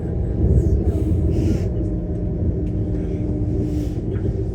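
Passenger train running: a steady low rumble with a faint hum, swelling briefly about half a second in.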